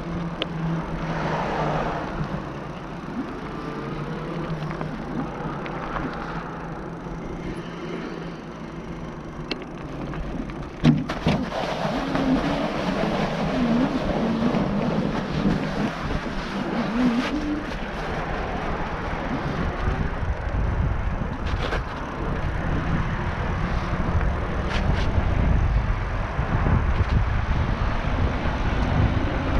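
NCM Aspen e-bike riding over rough trail, its rear hub motor whining in a pitch that wavers up and down, with tyre noise and rattles over the bumps. There is a sharp knock about eleven seconds in, and wind rumbles on the camera microphone through the second half.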